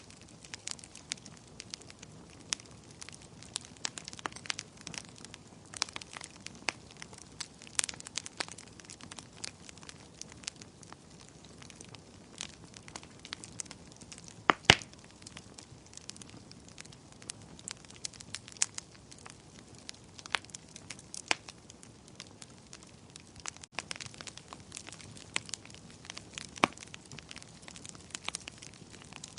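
Fire crackling: irregular snaps and pops over a soft steady hiss, with one louder pop about halfway through.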